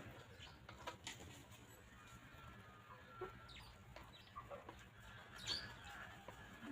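Free-range hens clucking faintly, with scattered short calls and small clicks; the loudest call comes about five and a half seconds in.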